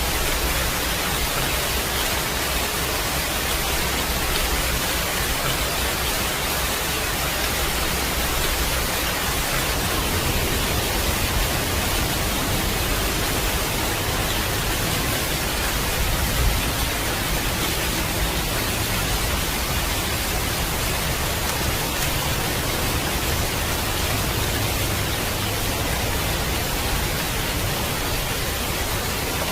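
Steady, dense rain hiss. A low rumble swells about a third of the way in and peaks briefly just past the middle, like distant thunder.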